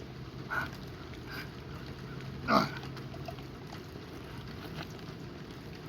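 A man grunting and exhaling hard with each rep as he finishes a set of Russian twists, with one louder, falling grunt about halfway through.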